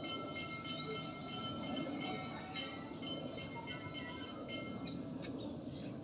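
A bell ringing in rapid, even strikes, about three a second, each leaving a metallic ring, then stopping about four and a half seconds in.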